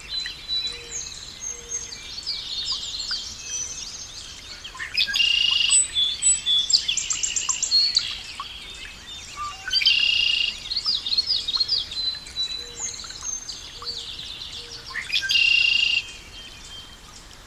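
Birds chirping and calling, with many short chirps and whistles and a louder, dense call of about a second that comes back roughly every five seconds.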